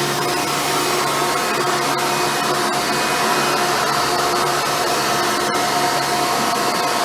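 Hoover Futura Elite upright vacuum running steadily while vacuuming carpet: an even motor whine over a constant rush of air.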